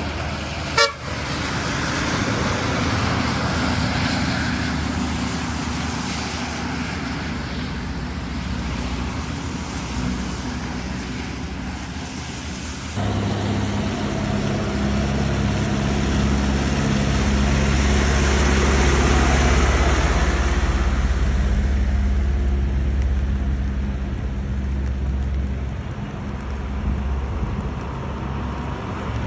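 Bus diesel engines running amid rain and traffic noise, with a sharp click about a second in. About halfway through the sound changes abruptly to a steady low engine drone that swells louder and then eases.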